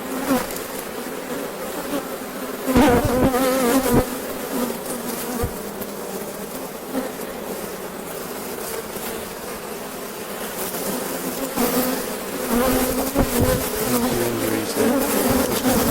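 Honeybees of a strong, open colony buzzing, a steady hum with a slightly wavering pitch. A few knocks come about three and four seconds in and again near the end, as the wooden hive boxes and frames are handled.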